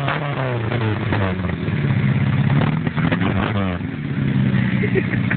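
Renault Express engine revved through its exhaust: the revs fall away at the start, are blipped up and down again about three seconds in, then settle to a steady idle.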